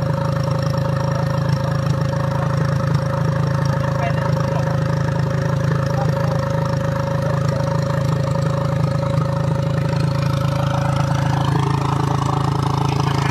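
Dirt bike engine idling steadily while the bike is worked on at the handlebar; its note shifts about eleven seconds in.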